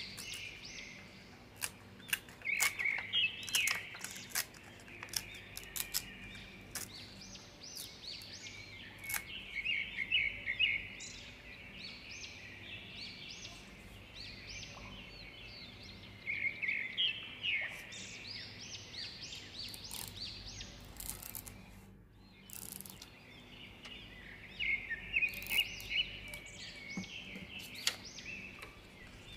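Small birds chirping and twittering in repeated bursts, mixed with the crinkle and tap of paper being handled and pressed down.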